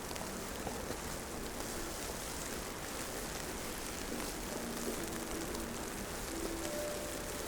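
Steady outdoor city-street ambience in wet snowfall: an even, rain-like hiss with faint short tones now and then.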